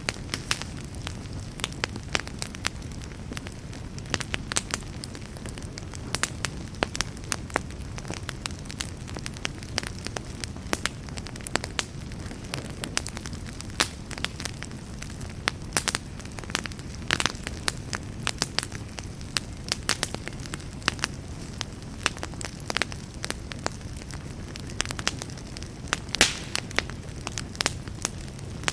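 Wood campfire burning, with a steady low rumble of flame under frequent sharp, irregular crackles and pops.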